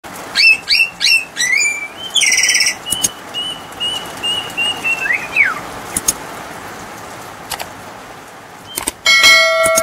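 Songbird calling: four quick rising chirps, a short buzzy note, then a long run of evenly spaced whistled notes ending in a downward slide. A few sharp clicks follow, and a bright ringing chime sounds near the end.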